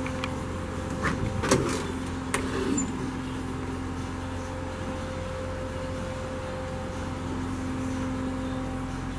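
A few sharp metal clicks and clunks from the 1941 Chevy pickup's body hardware being handled, the loudest about a second and a half in, over a steady low hum.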